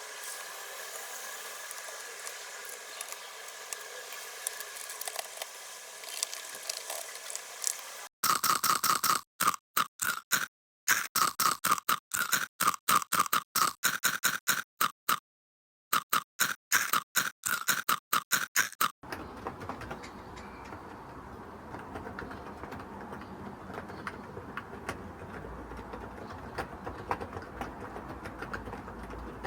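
Clicks and clacks of keyboard keys and small hard parts, with steady handling noise. In the middle they come as short chopped snippets separated by sudden silences.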